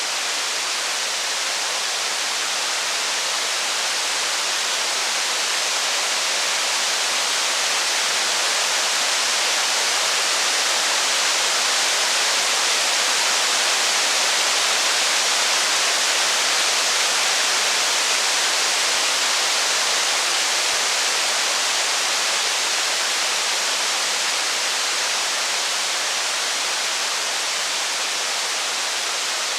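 Steady heavy rain, a dense even hiss with no crackles or thunder, swelling slightly in the middle.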